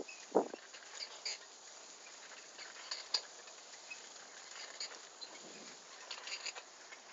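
Bicycle riding over a rough forest track: scattered small rattles and clicks throughout, with one brief louder sound about half a second in.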